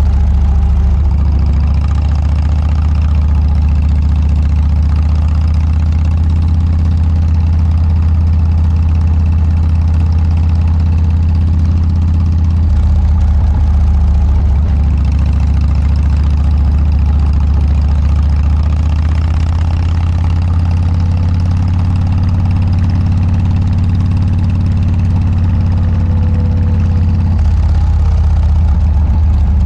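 Harley-Davidson Dyna's V-twin engine running steadily through an aftermarket Motorstage muffler, a low, even exhaust note that shifts slightly about halfway through and again near the end.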